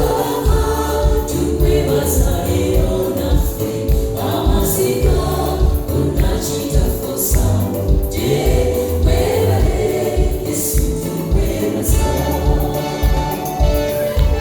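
Gospel choir singing over a steady, driving bass beat.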